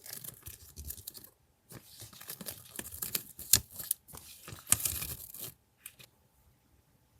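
Paper and packaging being handled: rustling, crinkling and tearing in irregular bursts with short pauses, stopping about five and a half seconds in.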